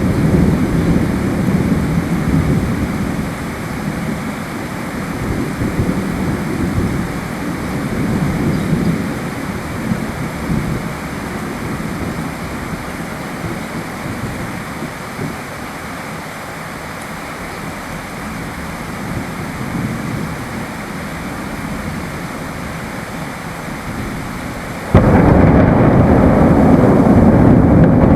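Steady rain with rolling thunder whose rumble fades over the first several seconds. About 25 seconds in, the sound jumps suddenly to a louder level.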